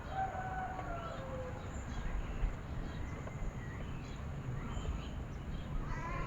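Wild birds calling: whistled notes gliding down in pitch in the first second or so, then a quick run of short notes near the end, over a steady low rumble.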